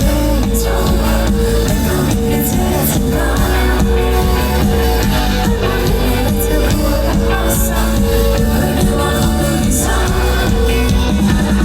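Live indie pop band playing a song in a large hall: steady bass, held keyboard or guitar notes and cymbal hits, with singing.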